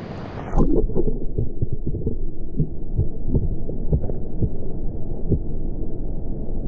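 Muffled underwater sound from a submerged action camera: a dull rumble of moving creek water with irregular knocks and thumps, everything above the low range gone. The muffling sets in suddenly within the first second as the camera goes under.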